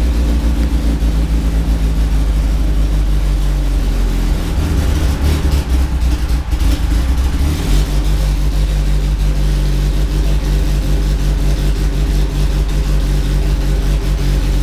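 Nissan SR20DET turbocharged four-cylinder engine, fitted with a new billet turbo, running steadily. Its note changes for a few seconds in the middle. The engine has an exhaust leak that is hard to hear under the engine note.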